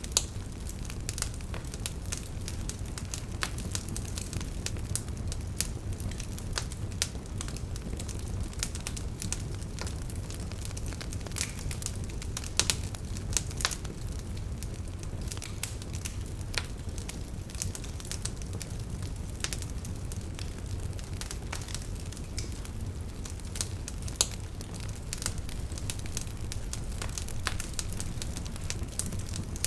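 Wood fire in a fireplace crackling, with irregular small pops and a few sharper snaps over a steady low rumble.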